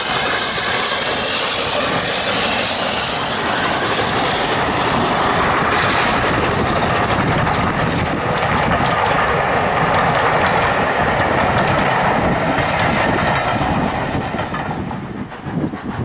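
Steam-hauled train passing close by: a high steam hiss at first, then the coaches' wheels rolling and clattering past on the rails. The sound dies away near the end as the train goes by.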